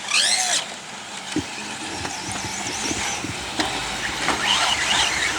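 Electric 4x4 RC trucks racing around the track, their motors whining and rising and falling in pitch as the drivers work the throttle.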